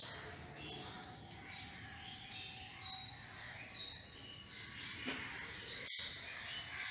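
Birds chirping faintly, many short high calls in a row; the sound cuts out for a moment about six seconds in.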